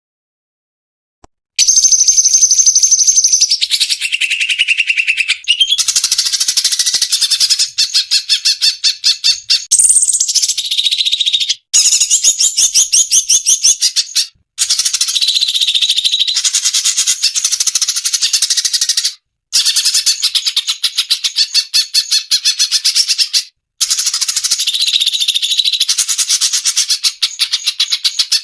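Recorded cucak cungkok song, played as a bird-training track: a loud, fast chattering song with whistled notes and short glides, starting about a second and a half in. It runs in looped segments with four brief abrupt breaks.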